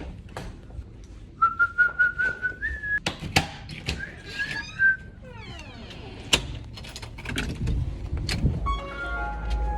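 Whistling: a held, wavering note about a second and a half in and another about four seconds in, among scattered knocks and clicks. A falling glide follows, and a short run of stepped musical notes comes near the end.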